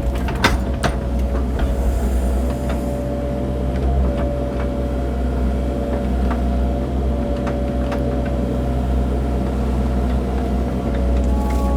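Cat mini excavator's diesel engine running steadily under a steady hydraulic whine, with a few light clicks and knocks from the machine as it works the dirt.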